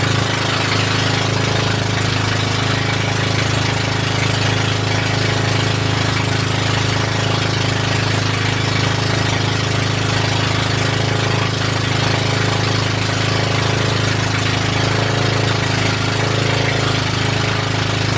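Boat engine running steadily at a constant speed, a loud low drone with a hiss of wind and water over it.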